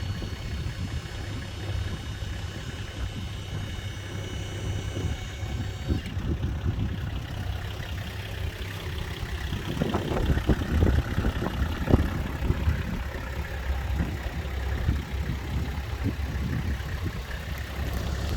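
Engine of a Toyota Land Cruiser tow truck idling steadily, with a louder stretch of short knocks and clatter about ten to twelve seconds in.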